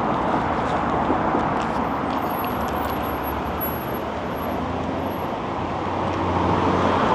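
Road traffic noise: a steady rush of cars going past, with a low engine hum coming up near the end.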